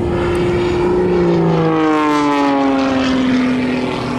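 Jet-assisted Pitts aerobatic biplane's engines and propeller passing by under power, the pitch falling steadily as it goes past.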